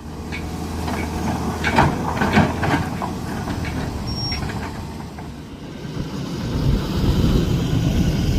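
Heavy diesel machinery running steadily, with a quick series of metal clanks about two seconds in, then the engine noise swelling louder near the end.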